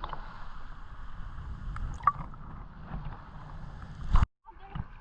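Seawater sloshing around a GoPro in its waterproof diving case, heard as a muffled low rumble with small ticks. About four seconds in there is a sharp loud hit, followed by a brief moment of near silence.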